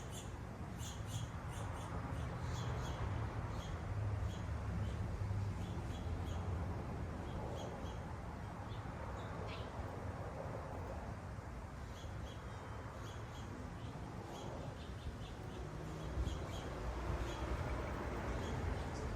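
Small wild birds at the feeders chirping in short high notes, often in quick runs, over a steady low background rumble.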